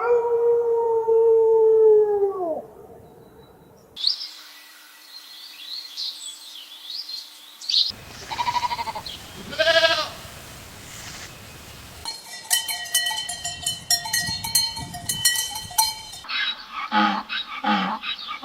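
A string of different animal calls cut one after another. First a single long farm-animal call that falls in pitch at its end. Then high warbling birdsong, quavering bleats, busy bird chirping, and a few short pitched calls near the end.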